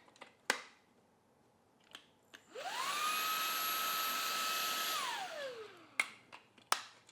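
Shark WANDVAC WV201 cordless handheld vacuum run briefly: its motor spins up to a steady high whine with a rush of air, holds for about two seconds, then winds down with falling pitch after it is switched off. Sharp plastic clicks come before and after.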